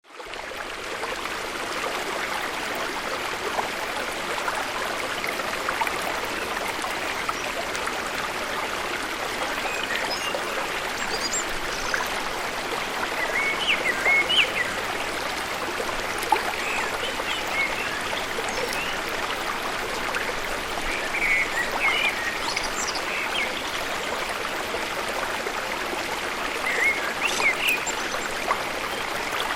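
Steady rush of water from a waterfall. Short bird chirps come through now and then, mostly in the second half.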